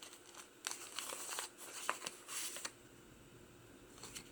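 Paper pages of a handmade journal rustling and crinkling as they are handled and turned, with a few small sharp clicks; the rustling stops about two and a half seconds in.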